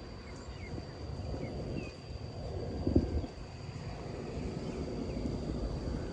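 Low rumble of road traffic that grows steadily louder, with a few short bird chirps in the first two seconds and a single dull thump about three seconds in.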